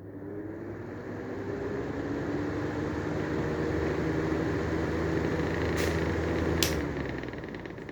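Clipsal Airflow exhaust fan with a Lenko Madison grille cover fitted, its motor winding up to speed with a rising hum and a rush of air, then running steadily. Two clicks come near the end, after which it starts to run down.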